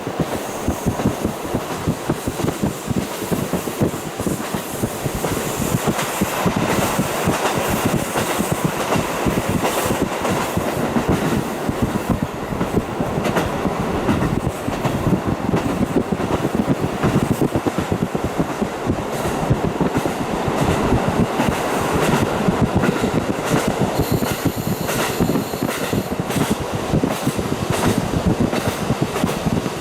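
KiHa 40 diesel railcar running along the line, heard through a fully open window: a steady, loud running noise with rapid clickety-clack of the wheels on the track.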